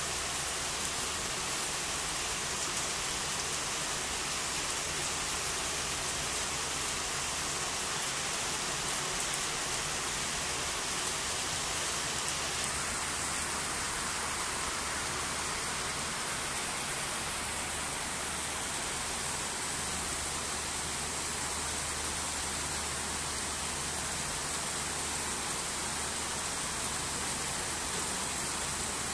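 Heavy rain pouring down steadily on a station platform and its canopy, a dense, even hiss.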